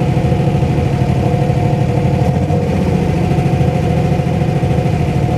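Mini truck engine running steadily at low revs, with a rapid pulsing exhaust.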